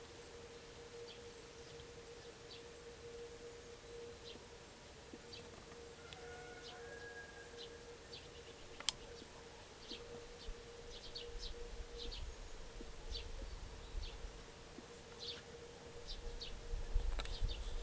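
Small birds giving many short, high chips and calls over a steady faint hum. There is one sharp click about nine seconds in, and a low rumble comes and goes in the second half.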